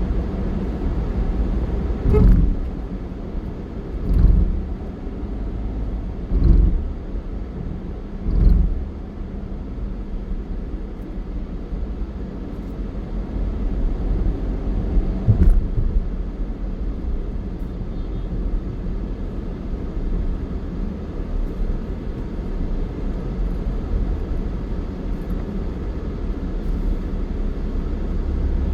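Steady low rumble of a moving vehicle, with four heavy low thumps about two seconds apart in the first nine seconds and a sharper knock at about fifteen seconds.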